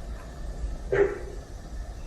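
A kitten gives one short mew about a second in, over a steady low rumble.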